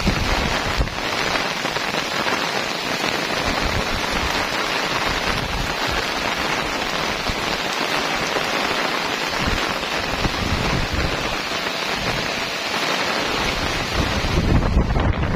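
Heavy rain falling steadily in a dense, even hiss, with a low rumble at the start and again near the end.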